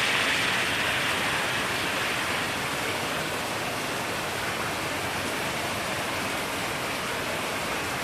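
Heavy rain falling in a steady downpour, an even hiss that eases slightly in the first few seconds and then holds level.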